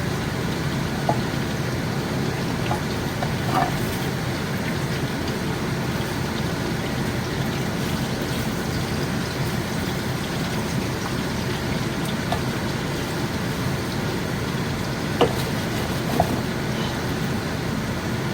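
Bacon strips sizzling steadily in a frying pan, with a few sharp pops of spitting grease.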